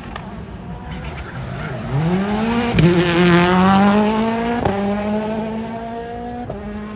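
Rally car engine accelerating hard, its note climbing and dropping sharply with each quick upshift, two or three times, loudest about three seconds in as it comes past.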